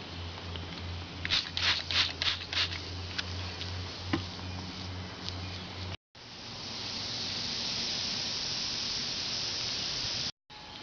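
A low steady hum with a quick run of clicks and taps, then, after a break, a steady hiss of rushing air, as when air is let into or out of a tyre.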